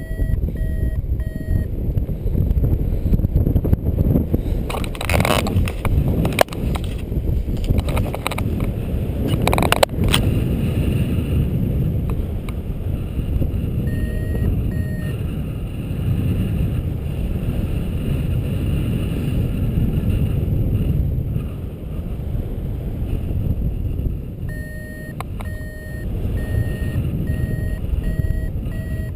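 Strong wind buffeting the microphone in flight, with a paragliding variometer beeping in runs of short, even beeps near the start, about halfway through and over the last few seconds.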